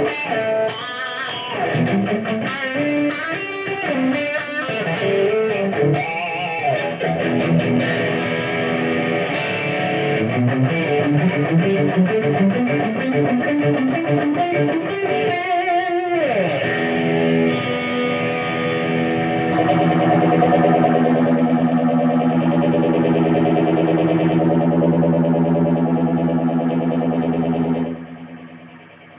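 Electric guitar played through effects pedals and a Marshall AVT50 amplifier: single-note lines and short phrases, a slide down in pitch about halfway through, then a held chord ringing for about ten seconds before it is cut off near the end.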